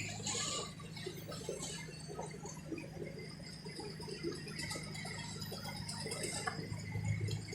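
Diesel engine of heavy earthmoving machinery running steadily with a low hum, with scattered clanks and rattles and a sharp click right at the start.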